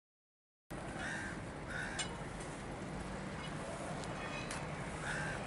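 Silent for under a second, then outdoor ambience with a low steady hum and a bird cawing three times in short calls.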